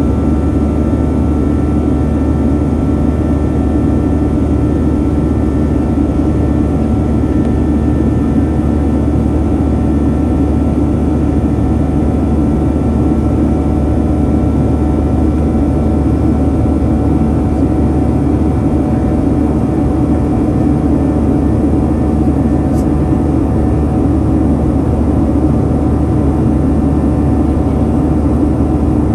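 Steady cabin noise of a Boeing 737-900 in climb: the CFM56-7B turbofans running under climb power together with the rush of air along the fuselage, an unchanging low drone with steady tones above it, heard from a forward window seat.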